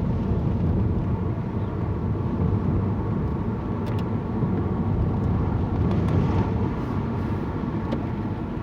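A car running along the road, a steady low drone of engine and tyre noise from inside the cabin.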